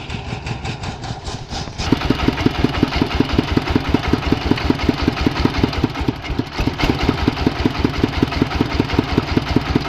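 Diesel engine of a rice threshing machine running; about two seconds in it gets louder and settles into an even, rapid beat of roughly six to seven pulses a second.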